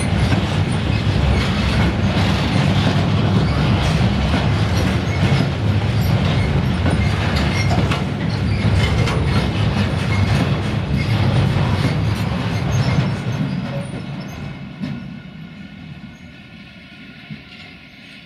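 Covered freight wagons rolling past close by: a steady rumble with the wheels clacking over rail joints. About thirteen seconds in, the last wagons go by and the noise fades quickly, leaving a faint steady hum.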